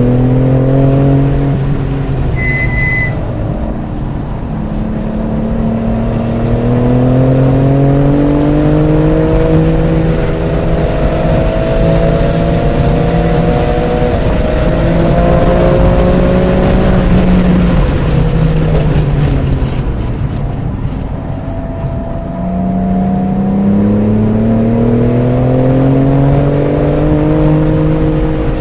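BMW F80 M3 Competition's twin-turbo inline-six accelerating hard through the gears of its six-speed manual, the revs climbing and dropping back at each upshift. Past the middle the revs fall away for several seconds, then it pulls up through the gears again near the end. A brief high beep sounds about two and a half seconds in.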